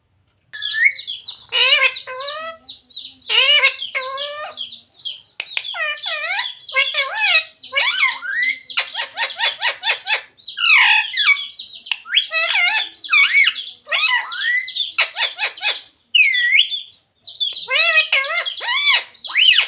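Pet rose-ringed parakeet calling almost without a break: chirps and squawks mixed with fast chattering runs and quick rising and falling whistled notes.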